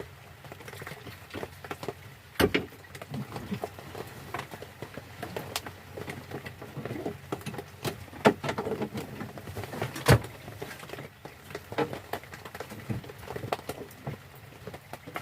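Rain pattering in irregular drops, with a few sharper knocks standing out about two and a half, eight and ten seconds in.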